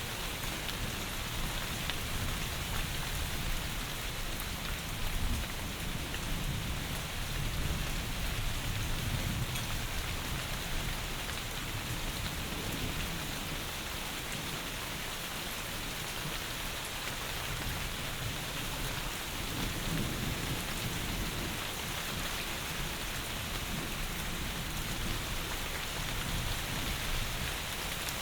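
Steady heavy rain falling, a dense even hiss, with low rumbles of thunder swelling and fading a few times, the last one building near the end.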